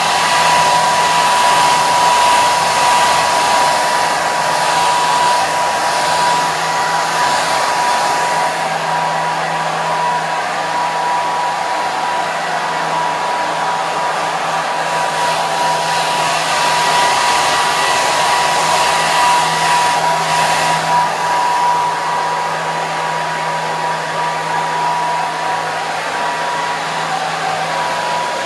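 Hair dryer running continuously: an even rush of blown air with a steady motor whine near 1 kHz, the air's hiss shifting slightly every few seconds.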